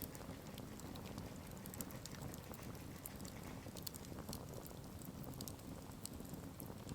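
Campfire burning, the wood crackling with irregular sharp pops and snaps over a low steady rumble.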